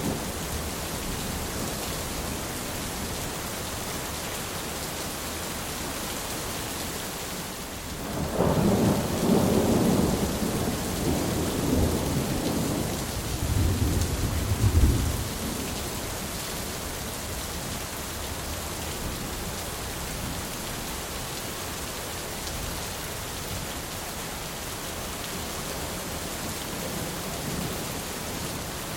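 Steady heavy rain, with a long roll of thunder that swells about a quarter of the way in, rumbles for several seconds with its deepest peak around the middle, then fades back into the rain.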